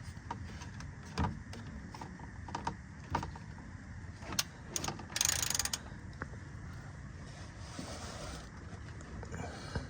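Hand tools working on metal: a scattered series of sharp clicks and knocks, with a short hissing burst about five seconds in.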